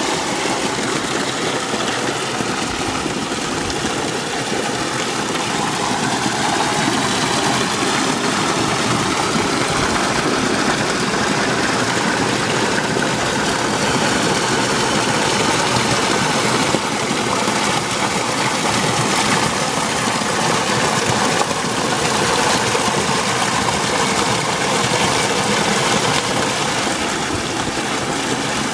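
Water running steadily from a spring outlet, a continuous splashing rush.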